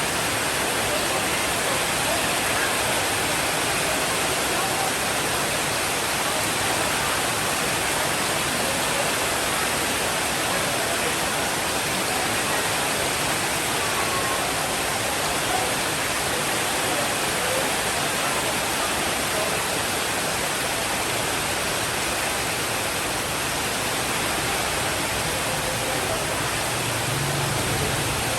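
Steady heavy rainfall, an even dense hiss that holds level throughout. A low rumble of distant thunder sets in near the end.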